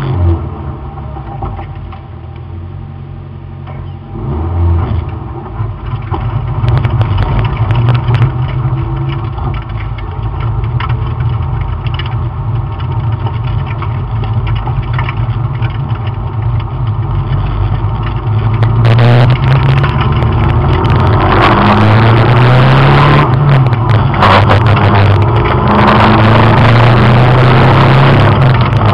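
Car engine heard from inside its cabin, idling at first with a brief rev about four seconds in, then driving off. From about two-thirds of the way through it runs much louder under hard acceleration, its note climbing and dropping back through the gear changes, with wind and road noise over it.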